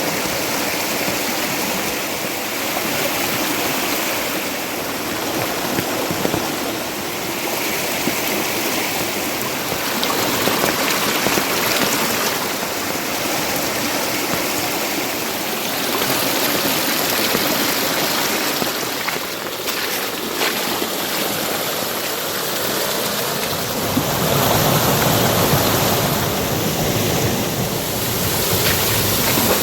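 Steady rushing of water, an even continuous hiss with no breaks, growing a little louder and deeper over the last few seconds.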